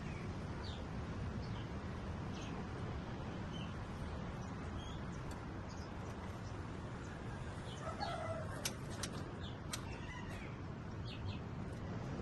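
Scattered short bird chirps over a steady background hiss, with a burst of calls and several sharp ticks about eight seconds in.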